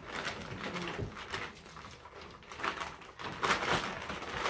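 Six-week-old English Springer Spaniel puppies making soft, scattered little vocal sounds as they play.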